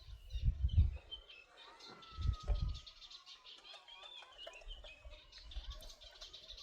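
Birds chirping, with many short high calls and a long gliding whistle about two seconds in. Two bursts of low rumbling thumps, near the start and just after two seconds, are the loudest sounds.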